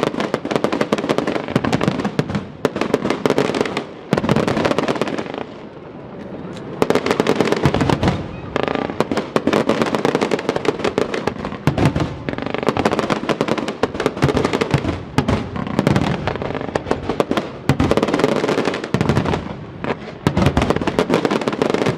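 Aerial fireworks display: dense salvos of shell bursts and crackling, loud and continuous, with a brief lull about five seconds in and another near the end.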